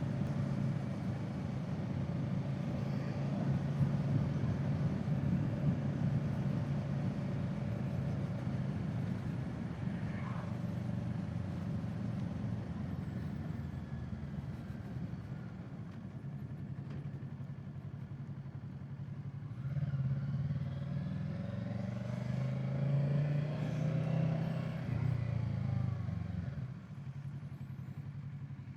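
Kawasaki Z650 motorcycle engine running under way, heard from the bike with wind noise. About twenty seconds in the engine note climbs as it is given more throttle, then drops back shortly before the end.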